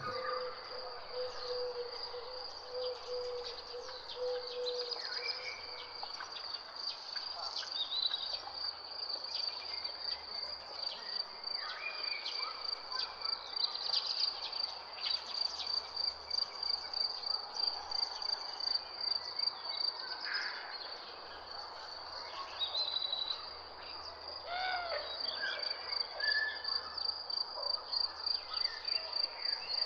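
Field recording of insects chirping in a steady, high pulsing trill, with scattered short bird calls over it. A low steady tone sounds for the first four seconds or so.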